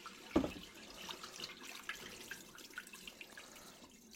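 Water spurting out of a mop bucket's bottom drain hole and splashing into a sink after the drain plug is pulled, with a knock about half a second in. The splashing dies away near the end.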